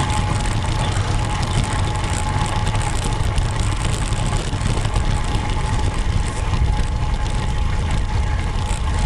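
Steady wind noise and low rumble on the microphone while riding a road bike, with a faint steady whine underneath.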